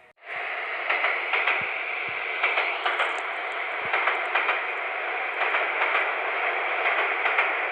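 Steady static-like hiss with scattered faint clicks. It starts suddenly just after the start and cuts off suddenly at the end.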